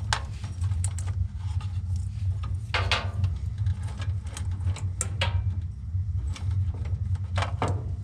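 Scattered clicks, taps and small rattles of wires and metal parts being handled inside an HVAC unit, over a steady low hum.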